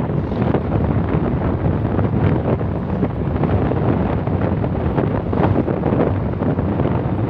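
Wind rushing over the microphone of a moving vehicle, mixed with steady road and engine noise.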